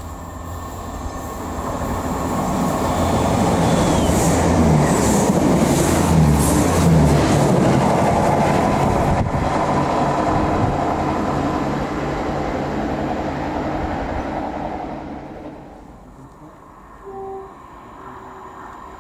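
Class 166 diesel multiple unit running through a station: a low diesel engine hum with wheel noise on the rails, growing louder, staying loud through the middle, then dying away about three-quarters of the way in. A short tone sounds just after that, near the end.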